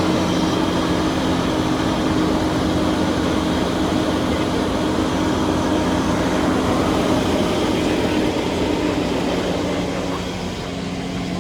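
A vehicle engine running steadily at a constant speed, with a slight dip in level near the end.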